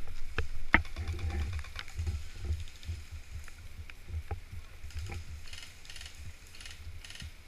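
Scattered sharp clicks and snaps, with a quick run of faint ticks about a second in, over a steady low rumble.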